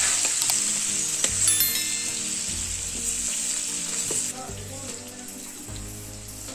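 Potato pieces frying in hot mustard oil in a kadai: a steady sizzle with a few clicks of a spatula stirring against the pan. The sizzle drops sharply about four seconds in.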